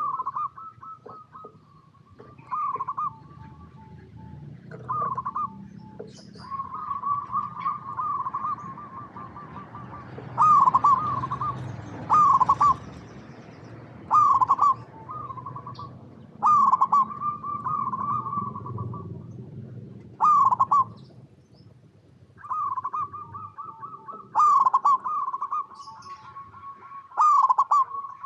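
Zebra doves cooing: about a dozen phrases of rapid staccato coos, each starting on a louder note, repeated every two to three seconds. Short high chirps sound above them now and then.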